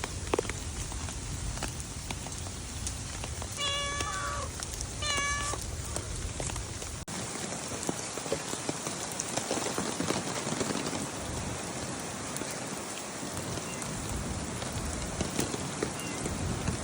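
Cat meowing twice, two short calls about a second and a half apart, over the steady patter of rain, which carries on alone for the rest of the time.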